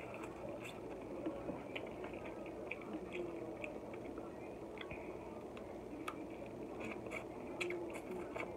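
Close-up eating sounds: chewing and wet mouth noises on crab meat, with scattered small clicks from the crab-leg shells being handled.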